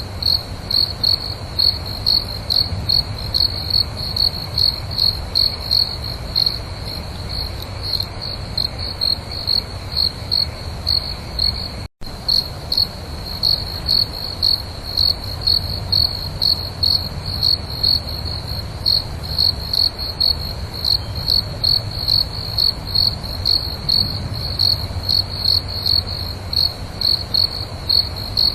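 Crickets chirping in a steady, even pulse, about two or three high chirps a second, over a low rumble. The sound drops out for an instant about twelve seconds in.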